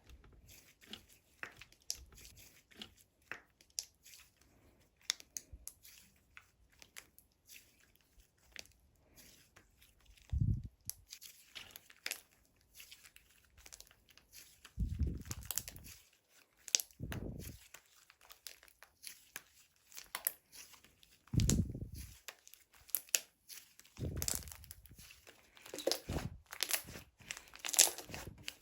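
Sherbet-textured slime being handled by hand: stretched, folded and pressed, with many small crackling and popping clicks and a few soft low thuds as it is squeezed.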